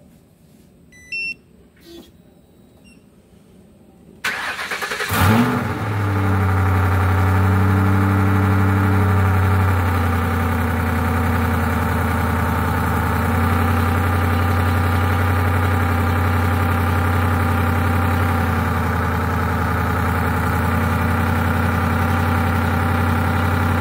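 Ford Crown Victoria Police Interceptor's 4.6-litre V8 on long-tube headers and the stock muffler, with the electric exhaust cutout closed, cold-started. The starter cranks briefly about four seconds in, and the engine catches with a short rev flare. It then settles into a steady, loud fast idle.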